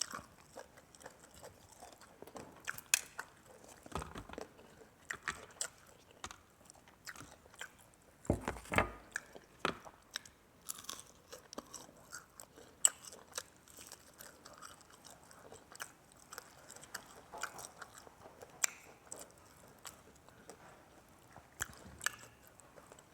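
A person eating close to the microphone: irregular crisp crunches and chewing, with a louder run of bites about eight to ten seconds in. The food is pounded papaya salad, grilled fish and fresh raw vegetables.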